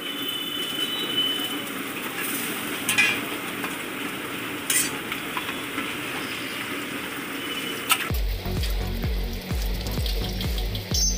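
Beaten egg sizzling and frying on a large flat griddle, with a few sharp clicks and scrapes of a metal spatula. About eight seconds in, background music with a steady beat cuts in abruptly and takes over.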